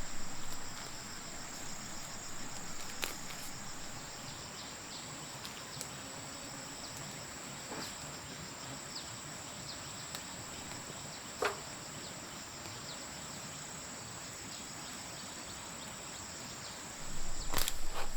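Insects, like crickets, chirring in a steady high-pitched drone, with a few faint ticks and a short falling call about eleven seconds in. Near the end, louder irregular knocking and rustling begin.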